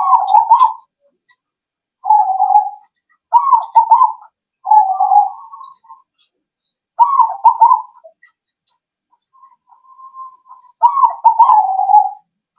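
Zebra dove (perkutut) cooing: about seven short, rolling, bubbling coo phrases, each roughly a second long, separated by brief pauses, with one fainter phrase just before the last.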